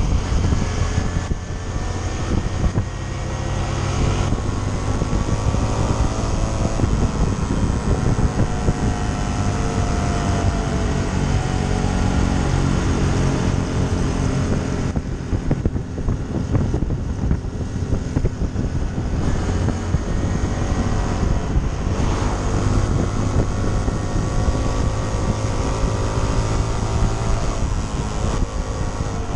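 Honda CT125 Trail 125's single-cylinder engine running under way on a paved road, its note climbing and dropping again several times as it revs through the gears, with wind rushing over the microphone.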